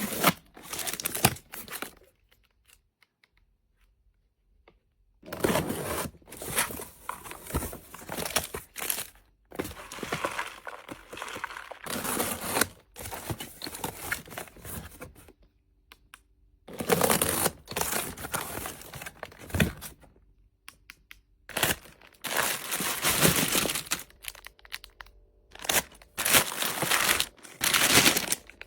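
Packaging being handled and opened: crinkling and tearing in irregular bursts, with a pause of about three seconds near the start and another short pause after about twenty seconds.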